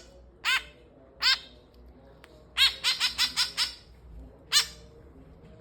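White-breasted woodswallow chick giving short, loud calls: single calls at the start, a quick run of about six in the middle, and one more near the end. These are the begging calls of a young bird being hand-fed.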